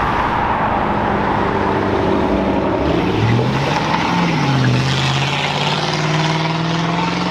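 Ford Mustang engine accelerating hard as the car pulls away, the engine note climbing, dropping briefly about four seconds in as it changes gear, then climbing again.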